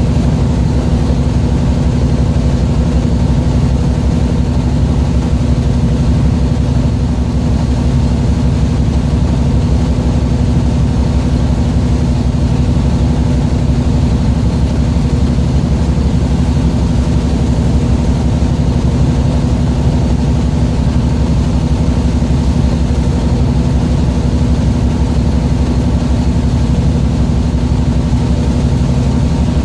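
A fishing boat's engine running steadily at constant speed: a loud, low-pitched hum with one strong steady tone and no change in pitch.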